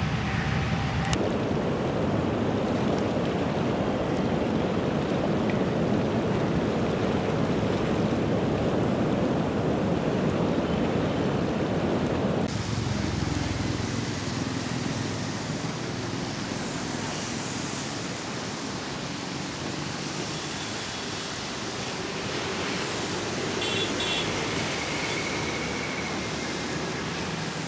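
Steady rushing noise of the flooded Bagmati river, with a short click about a second in and an abrupt change in the noise's character about twelve seconds in.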